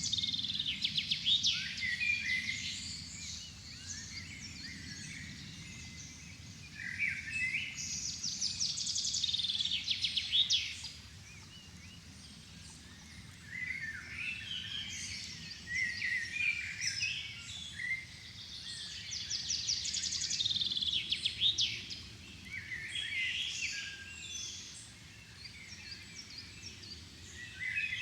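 Songbirds singing in a dusk chorus: phrases with fast trills and quick falling notes come every few seconds. A low steady rumble runs underneath.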